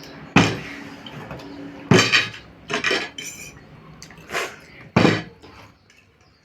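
A plastic water bottle being flipped and landing on a hard surface again and again, about five sharp clattering knocks in a few seconds.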